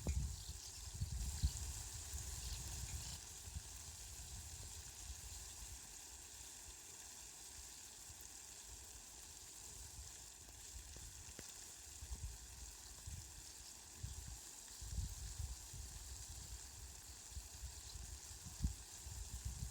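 Steady rain falling, an even hiss. A low rumble comes and goes underneath, strongest near the start and again in the last few seconds.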